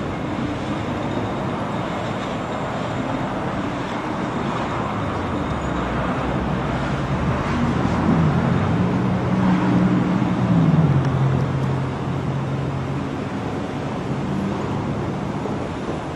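A heavy vehicle passing with a steady rumble that swells about halfway through, its low engine note dropping in pitch as it goes by, then easing off.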